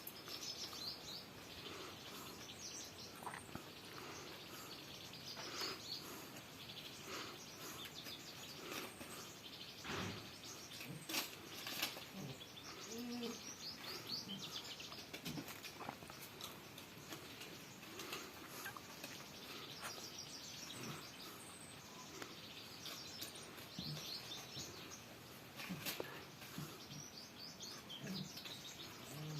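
Small birds chirping and twittering over quiet outdoor background noise, with a few sharp clicks or knocks about a third of the way in.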